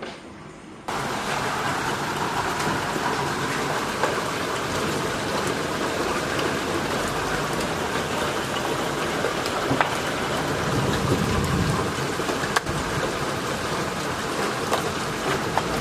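Heavy rain pouring down in a steady roar, with many sharp ticks of drops striking hard surfaces; it cuts in suddenly about a second in.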